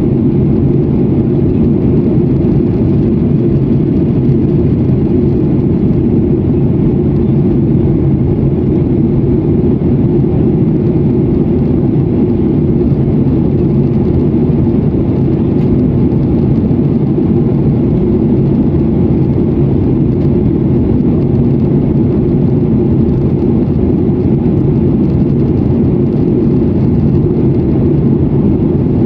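Steady, loud, low cabin noise of a jet airliner's engines and airflow during takeoff and climb, heard from inside the passenger cabin.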